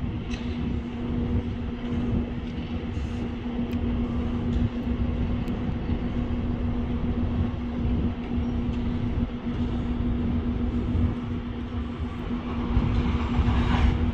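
Freight train of open hopper cars rolling along the track, a steady low rumble over a constant hum, with a few light clicks and the noise swelling near the end.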